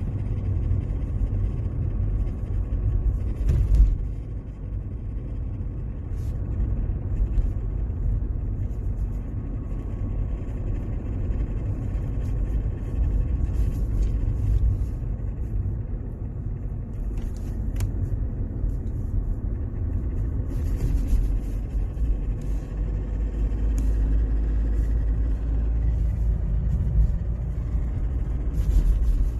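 Mercedes-Benz W203 in motion, a steady low rumble with brief scraping or rattling noises every few seconds. These are typical of the strange noise from the automatic gear selector area, which the owner traced to the parking brake cable, its clips broken, catching on the prop shaft.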